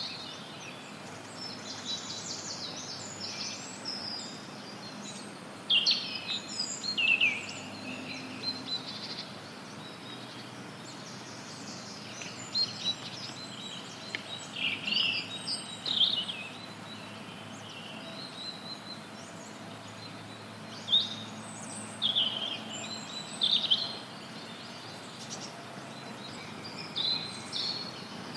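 Forest songbirds chirping and singing in short clusters every few seconds, over a steady background hiss of added white noise.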